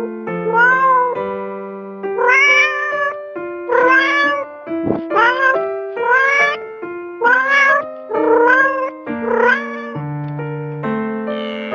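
A cat meowing over and over, about once a second, over background music.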